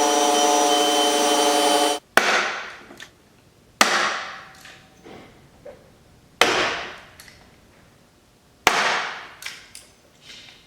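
Electric drill running as it bores a hole in the fender for a molding clip, stopping about two seconds in. Then four sharp knocks a couple of seconds apart, each trailing off with a few smaller taps, as the rivet-type molding clips are knocked into the holes.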